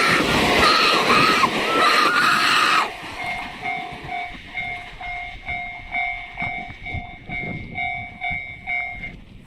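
A train passes over the level crossing loudly for about the first three seconds, with a high tone riding on the rail noise. Then the Japanese level crossing's electronic warning bell goes on ringing at about two dings a second, and stops shortly before the end.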